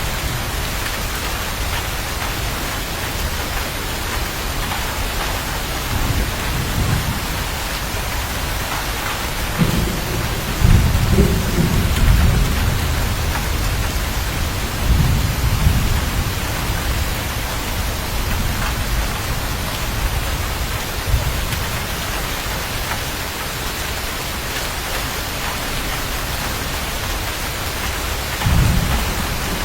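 Steady heavy rain with rolls of thunder rumbling through it, the strongest about ten seconds in and another starting near the end.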